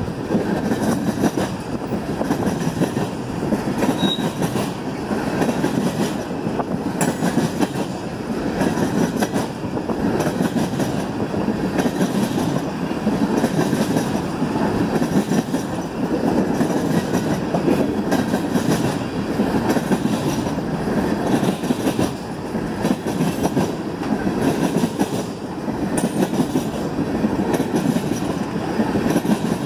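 Railroad tank cars of a freight train rolling past close by: steel wheels running on the rails, with a steady rhythmic beat about every two seconds as each car goes by.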